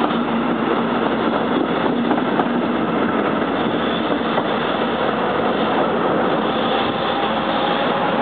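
Electric passenger train running along the track past a tunnel mouth: a steady rush of wheels on rails that holds level throughout.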